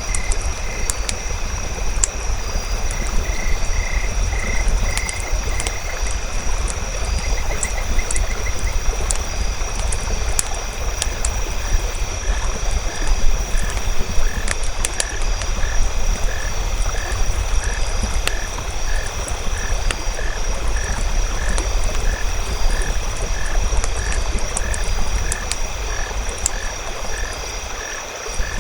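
Nature ambience: a campfire crackling with scattered sharp pops over a low steady rumble, with frogs calling and insects trilling steadily. A series of short frog calls repeats about twice a second from about a third of the way in.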